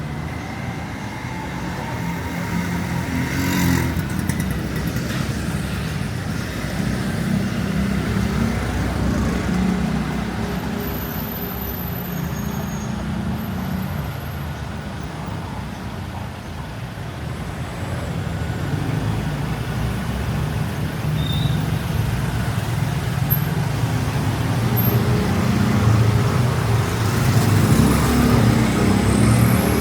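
Street traffic: vehicle engines running as cars and other vehicles pass close by, with a brief rattle about four seconds in and the traffic growing louder near the end.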